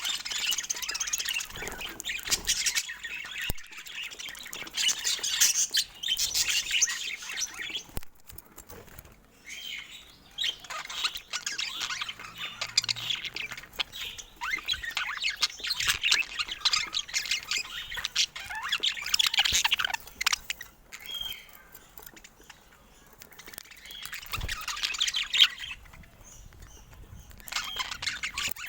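Budgerigars chattering, chirping and squawking in bursts, with short quieter lulls between them.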